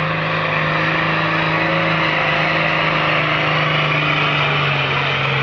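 Roadless-conversion tractor's engine running hard under load on a pull down the track, a steady drone whose pitch drops slightly near the end.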